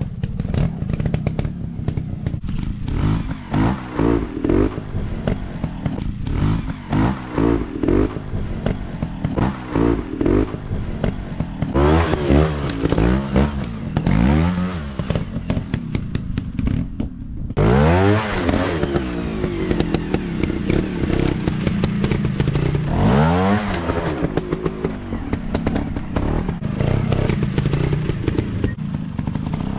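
Off-road trail motorcycle engines revving up and down over and over, the throttle blipped repeatedly in short rises and falls, with clattering and scraping mixed in.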